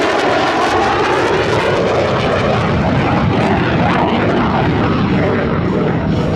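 Loud aircraft engine noise from a plane flying past, steady in level with a sweeping, shifting tone as it passes.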